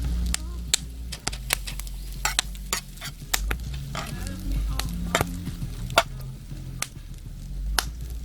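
Campfire cooking: irregular sharp pops and clicks, a dozen or so, over soft background music with a low bass line.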